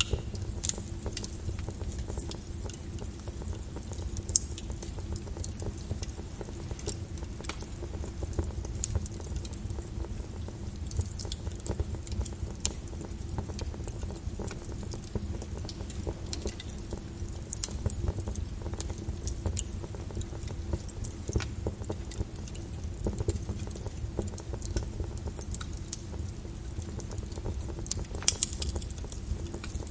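Wood fire in a fireplace crackling, with frequent irregular small pops and snaps over a low steady rumble.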